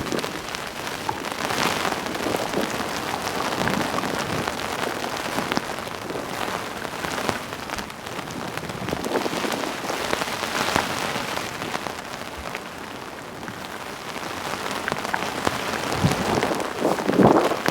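Heavy rain falling hard and steadily, the dense patter of many drops, swelling louder near the end.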